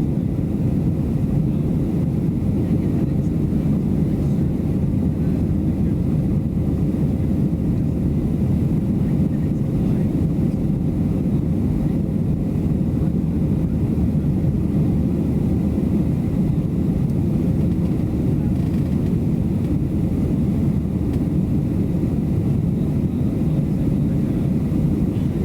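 Steady low rumble of jet airliner cabin noise inside a Boeing 737-700, its engines and airflow, with a faint steady hum and no change in level.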